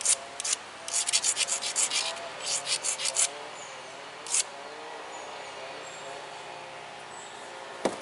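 Edge of a tiger chert flake point being abraded with a stone in short scraping strokes, a quick run of them in the first half, then a pause. A single sharp click near the end.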